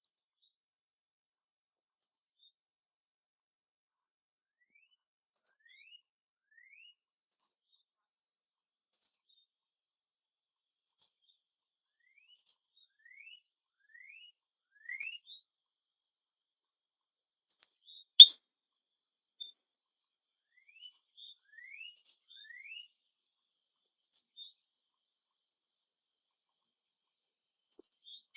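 Songbirds chirping: short, high, slightly falling chirps repeated every second or two, with fainter rising notes in between.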